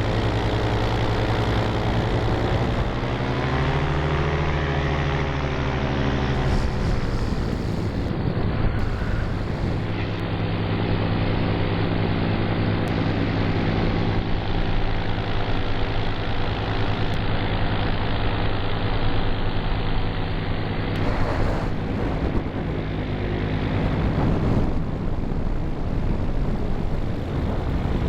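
Propeller aircraft engine running steadily, its pitch shifting briefly a few seconds in.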